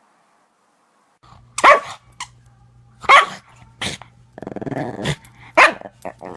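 A dog barking, four loud single barks over a few seconds with a growl between the last two, starting after a second of silence over a low steady hum.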